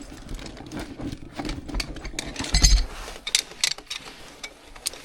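Metal hand tools and wrenches clinking and clattering as they are handled, with a heavier knock about two and a half seconds in.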